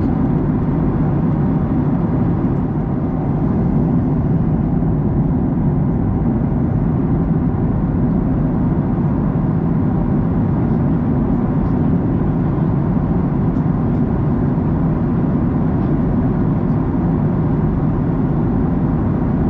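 Boeing 737-900ER cabin noise in cruise flight: a steady, even rush of engine and airflow sound.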